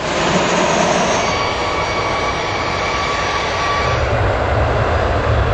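Boeing 737 jet engines running loud at close range, a rushing noise with a steady high whine, the low rumble growing stronger about four seconds in.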